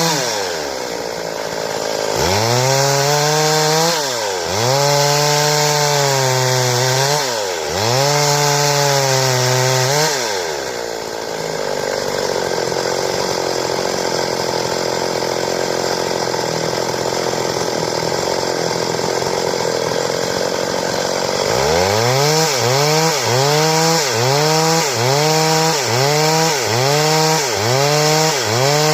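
Two-stroke Stihl chainsaw cutting wood, its engine pitch dropping under load and climbing back in several long cuts over the first ten seconds. It then runs at a lower, steadier note for about ten seconds, and near the end the pitch dips and recovers in quick strokes about once a second.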